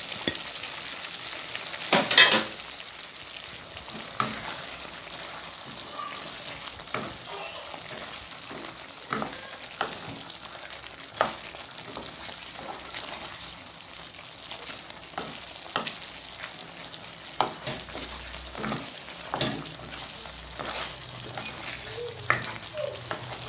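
Chicken karahi sizzling and frying on high heat while a spatula stirs it, its liquid cooking off. The spatula knocks and scrapes against the pan in short clicks, the loudest about two seconds in.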